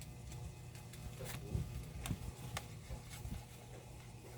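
Faint handling noise with a few sharp clicks, from tester probes and a small battery being handled on a workbench, over a steady low hum.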